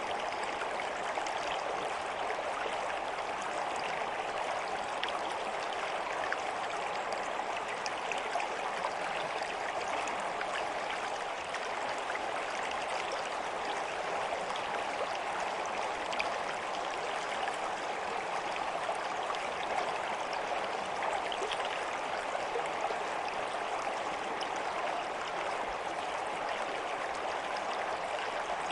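A stream flowing steadily: a continuous rush of water with fine splashing and trickling.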